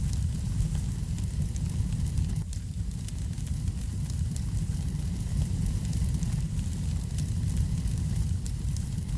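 Fire burning in a fireplace: a steady low rumble with frequent small, sharp crackles and pops.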